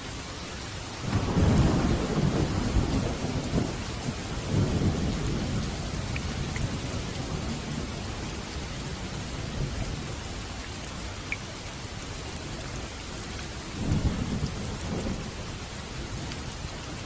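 Steady rain with thunder rumbling: a long low roll of thunder starting about a second in and rolling on for a few seconds, and another shorter rumble near the end.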